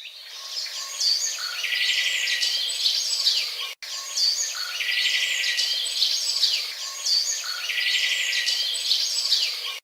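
Birds chirping and trilling, several calls overlapping, in a pattern that repeats about every three seconds, with a brief dropout near the middle.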